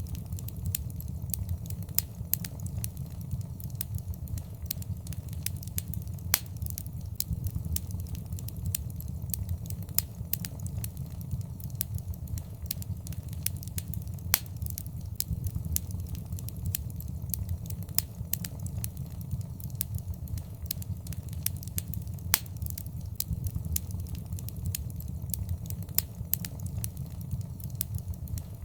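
Wood fire in a fireplace crackling, with many irregular sharp pops over a steady low rumble of flames; a few pops stand out louder.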